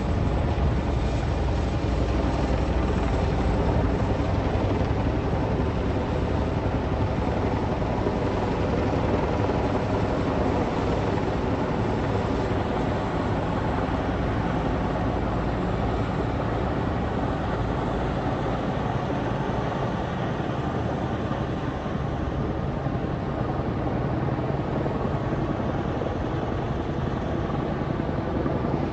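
Military helicopter flying, a loud, steady rotor and engine noise that holds throughout.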